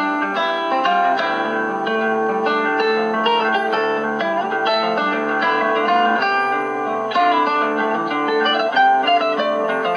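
Acoustic guitar music playing on a five-tube superheterodyne AM radio. The notes are plucked in a steady flow, heard through the radio's speaker with no deep bass.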